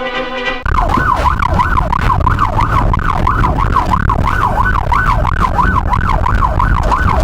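Emergency siren in a fast yelp, its pitch rising and falling about three times a second over a low rumble; it cuts in suddenly under a second in, as music stops.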